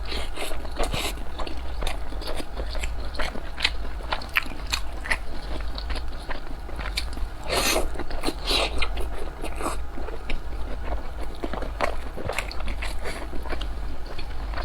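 Close-miked chewing of a soft steamed dumpling: irregular wet smacking and clicking mouth sounds, over a steady low hum.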